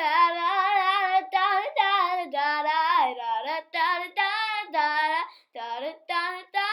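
A child singing a wordless run of "da da da" syllables unaccompanied, a wavering melodic line broken into short notes with brief pauses between phrases.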